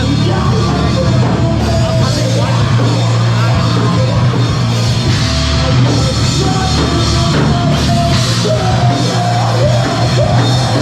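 A live heavy rock band playing loud, with a drum kit and some yelled vocals.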